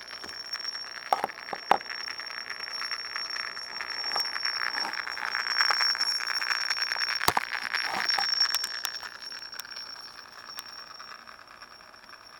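Google Cr-48 laptop's built-in speakers putting out a terrible electronic noise in place of the music it was meant to play: a steady high whine over a dense crackling buzz, with scattered clicks. It swells louder through the middle and fades toward the end.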